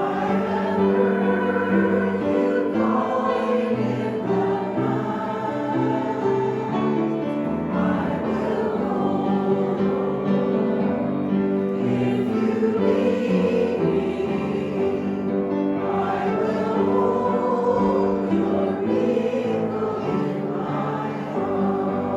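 A choir singing a hymn in held, slowly changing chords.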